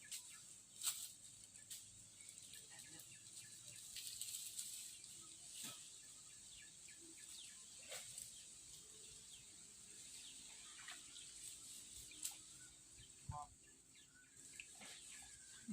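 Faint outdoor ambience: a steady high-pitched insect drone, with scattered short clicks and an occasional faint bird chirp.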